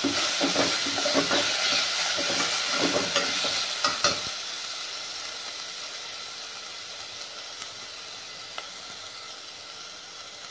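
Onion, ginger and garlic frying in oil in a metal pot, with a metal spoon scraping and stirring through them for the first four seconds or so. After that the food sizzles steadily on its own and slowly grows quieter.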